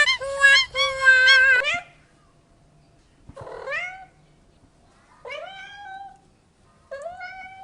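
A cat meowing three times, about two seconds apart, each meow rising in pitch and then holding. It follows a quick run of short high-pitched vocal notes that stops about two seconds in.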